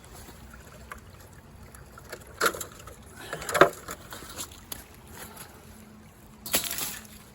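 Water sloshing and splashing in three short bursts, the loudest near the middle, as sluice concentrate is worked in water.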